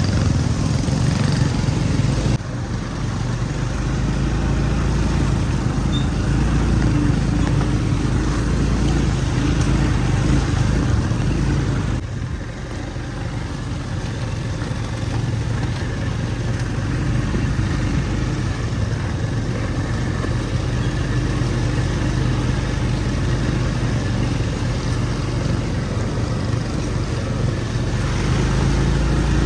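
A motor vehicle's engine running steadily under a broad wash of road and wind noise, with a low hum; the sound drops abruptly about two seconds in and again about twelve seconds in.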